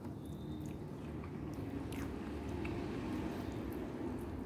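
Close-up chewing of a mouthful of soft noodles and tofu, continuous and wet, with a few faint clicks.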